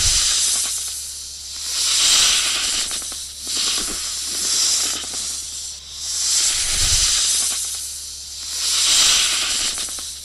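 Cartoon snake hissing: a long hiss that swells and fades again about every two seconds.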